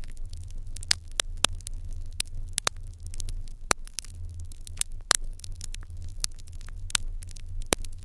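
Fire in an irori hearth crackling: irregular sharp pops and snaps, a few clearly louder than the rest, over a steady low rumble.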